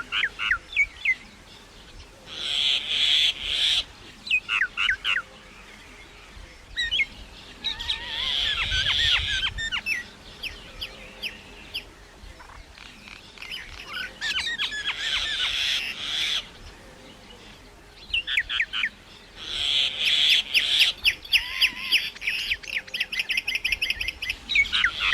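Birds chirping in bursts of rapid, high chirps every few seconds, with scattered single chirps in between; the longest burst comes near the end.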